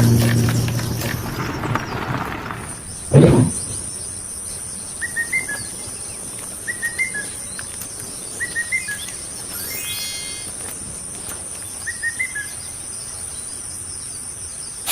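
A bird calling in four short groups of three or four chirps, over a steady high-pitched whine, with a single thump about three seconds in.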